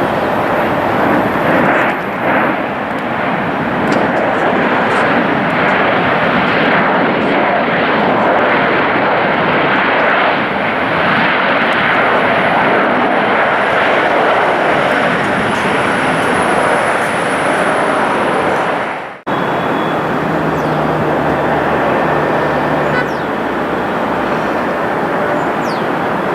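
Jet airliner engines giving a loud, steady rushing noise as an aircraft operates on the runway. About 19 s in the sound cuts off abruptly and resumes at once as a similar steady jet noise with a faint low hum.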